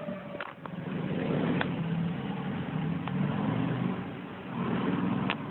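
A vehicle engine running, its low rumble rising and falling, with a few light clicks.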